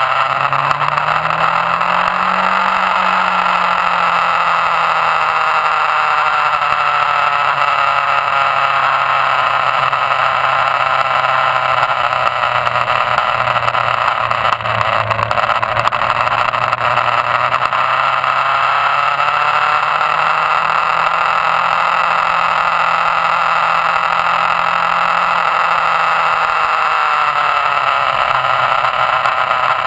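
Motorcycle engine heard from an onboard camera on the bike, its pitch rising and falling a few times as the rider accelerates and eases off through the corners, under a steady rush of wind noise.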